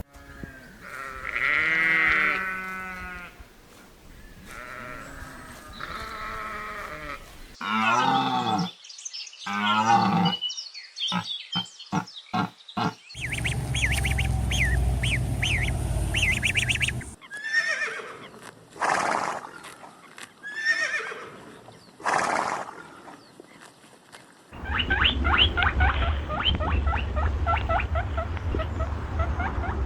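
Farm animals calling, in a run of separate short clips joined by sudden cuts: a different animal's calls in each, ending with a fast string of repeated calls.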